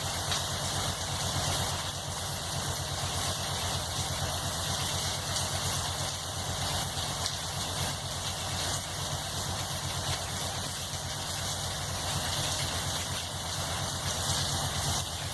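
A motor running steadily at idle, with a rapid, even low pulse, under a steady high hiss.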